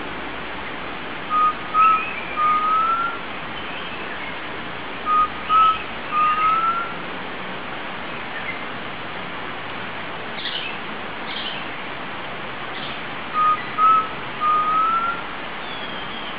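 Undulated tinamou (jaó) singing: three whistled phrases a few seconds apart, each two short flat notes followed by a longer rising note, over a steady hiss.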